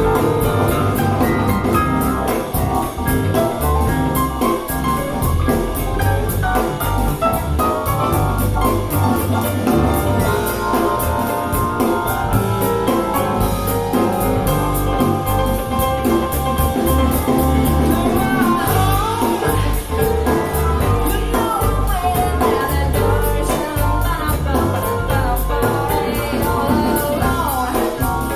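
A song with singing over a steady drum beat, played back through a pair of Bowers & Wilkins 707 S2 mini monitor speakers.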